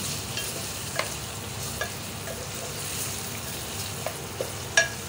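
Raw chicken pieces frying in hot oil with fried onions in a metal pot, being browned: a steady sizzle, with the spatula scraping and knocking against the pot every second or so, the loudest knock near the end.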